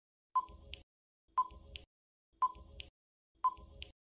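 Quiz countdown timer sound effect: a short ping followed by a faint click, once a second, four times.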